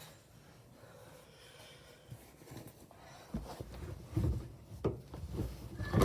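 Bosch washing machine on a quick wash with a pillow in the drum: faint rubbing at first, then from about halfway a run of irregular dull thumps, the loudest near the end.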